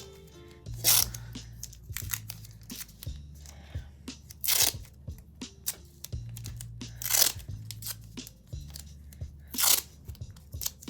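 Paper and tape being handled: four loud, short crinkling tears, about two and a half seconds apart, as paper bag sheets are crumpled and taped down. Background music with low bass notes plays underneath.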